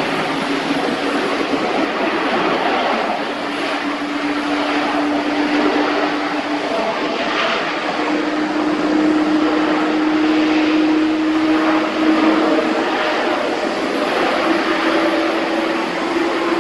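Cargolux Boeing 747-8 freighter's four GEnx turbofan jet engines, loud and steady, with a low hum that steps gradually higher in pitch.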